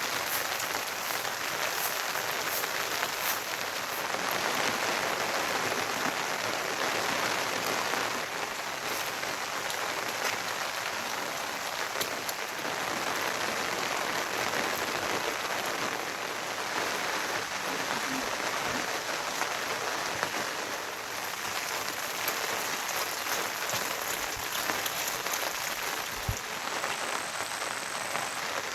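Heavy rain falling steadily, a continuous even hiss with scattered drop ticks.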